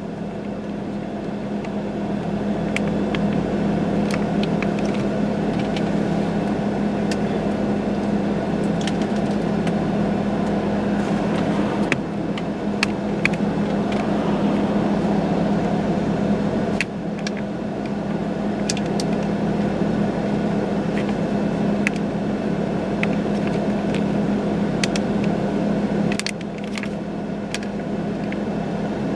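Steady low hum of an idling vehicle engine, with scattered sharp ticks and clicks over it.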